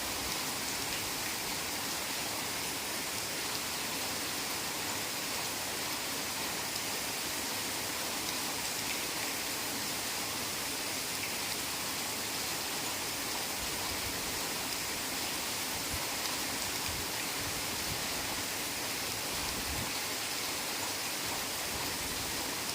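Heavy rain falling steadily, an even hiss of many drops with no breaks.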